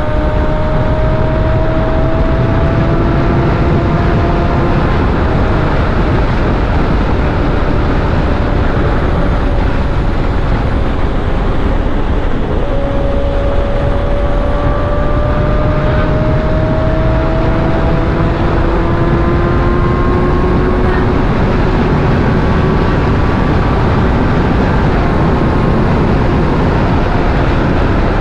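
Yamaha R1 sport bike's inline-four engine running at road speed under heavy wind rush, its note climbing slowly in pitch a few times as the bike gently accelerates.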